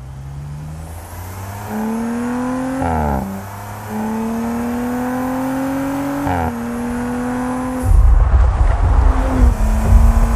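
Audi RS5's twin-turbo V6 accelerating hard, its pitch climbing and dropping sharply at upshifts about 3 and 6½ seconds in. After about 8 seconds a loud low rumble takes over.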